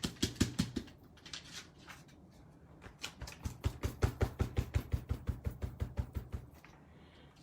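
Rapid light tapping on a craft work surface, about five taps a second, in two runs: a short one at the start and a longer one from about three seconds in until near the end. A low steady hum runs underneath.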